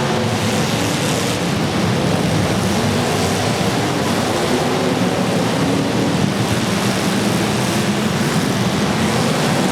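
Several demolition derby cars' engines running and revving together, a loud, steady mass of engine noise with shifting pitch.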